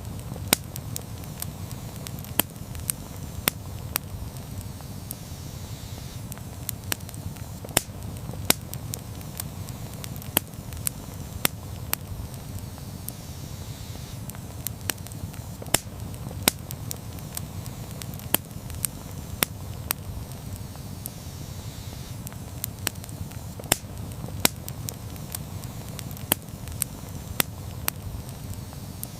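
Campfire burning with a steady low rumble of flames and frequent irregular sharp crackles and pops, about one or two a second.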